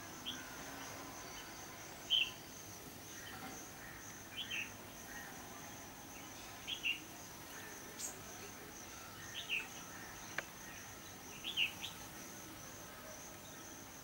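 Short bird chirps, a few at a time, every couple of seconds over a steady high-pitched insect drone, like crickets, that never stops. One or two faint clicks come in the second half.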